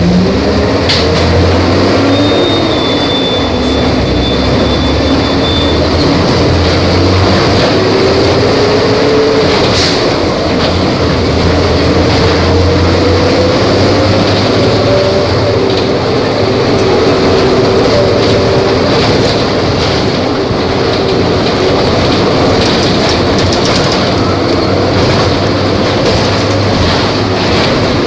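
Volvo B270F bus engine running under way, its note rising and falling as the revs change over a steady rumble.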